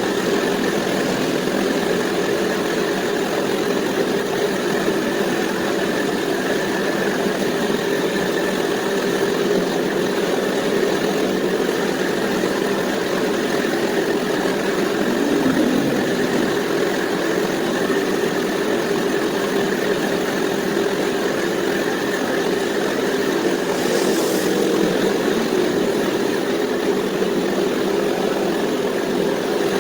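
Motorcycle engine idling steadily through a homemade exhaust, with a brief high tick about 24 seconds in.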